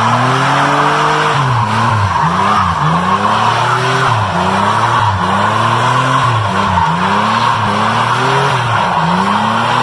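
A car drifting: the engine revs up and down in quick pulses, about once every 0.7 s, over a steady screech of sliding tires.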